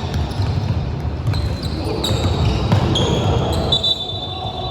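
Basketball game on an indoor court: a basketball bouncing on the floor, with short high sneaker squeaks and players' voices in between.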